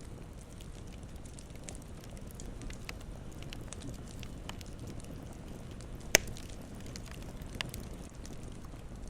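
Campfire crackling over a low steady rumble, with scattered snaps and one loud pop about six seconds in, a smaller one about a second and a half later.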